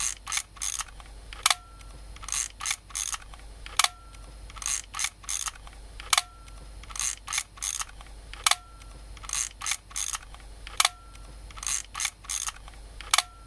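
Film camera mechanism clicking: a shutter click with a brief tone, then a few quick ratcheting clicks of the film advance. The pattern repeats evenly about every two and a half seconds.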